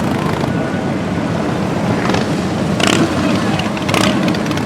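Motorcycles in a parade riding past, their engines running in a steady loud din, with three short sharp bursts of noise about two, three and four seconds in.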